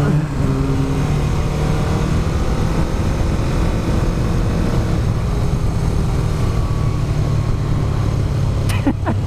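Motorcycle being ridden at a steady cruise: the engine drones along under a constant rush of wind and road noise, its note settling slightly lower in the first couple of seconds. A few short knocks come near the end.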